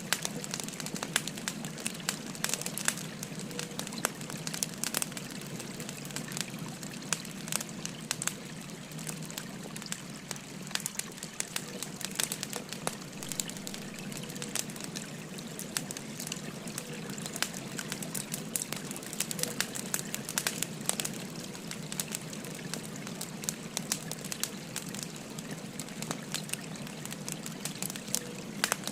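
Firewood burning, with frequent sharp crackles and pops at irregular intervals, over the steady rushing of a flowing river.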